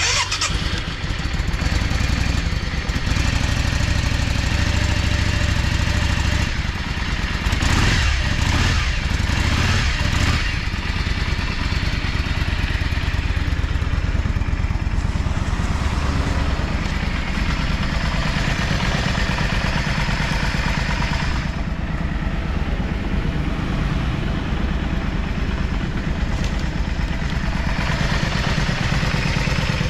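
Yamaha Drag Star 400 Classic's air-cooled V-twin engine idling steadily, revved up a few times about eight to ten seconds in, then settling back to idle. The seller calls it smooth-running with no abnormal noises.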